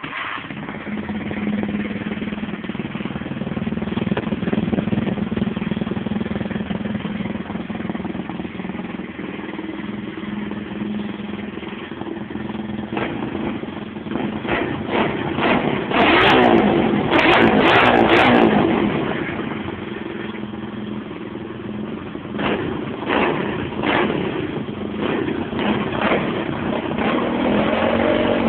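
Pit bike engine running through a homemade exhaust, settled at a steady idle and then blipped and revved. The hardest revs, and the loudest moment, come about halfway in, followed by a run of shorter throttle blips near the end.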